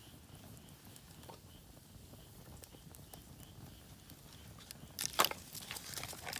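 Campfire crackling: scattered small pops, then a burst of louder snaps and cracks near the end.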